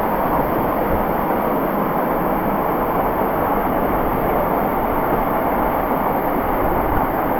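Small waterfall's falling water, a steady, unbroken rush.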